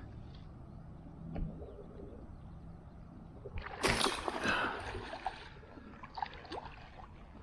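Water splashing in shallow floodwater: one loud splash a little past halfway that lasts over a second, with small splashes and clicks around it.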